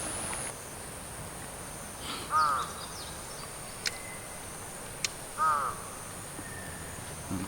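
A crow cawing twice, about three seconds apart, with two sharp clicks between the calls.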